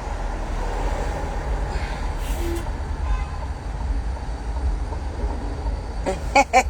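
Steady low road rumble of a car on the move, heard from inside the cabin. Near the end comes a quick run of short, repeated pitched sounds.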